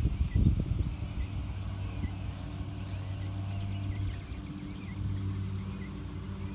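A steady low engine hum, as of a motor vehicle running nearby, with wind buffeting the microphone in the first second. Short high chirps repeat over it.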